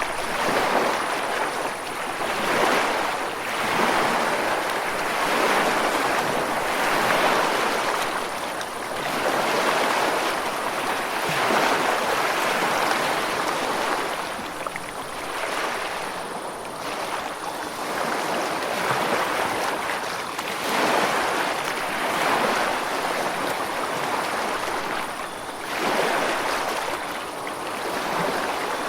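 Ocean surf washing onto a shore: a steady rush of breaking waves that swells and eases every two to three seconds.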